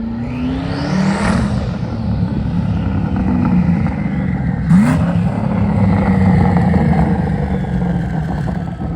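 Twin-turbocharged Coyote V8 of a 2011 Mustang GT running hard under acceleration, with a high whine that rises and then falls about a second in and a brief sharp hiss about five seconds in.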